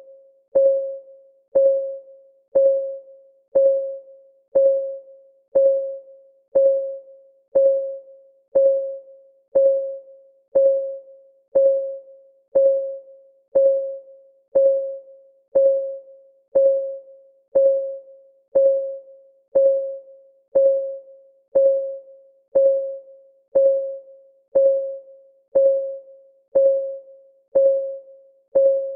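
A clock-ticking sound effect: a short, pitched tick once a second, each one ringing briefly on the same mid note before dying away.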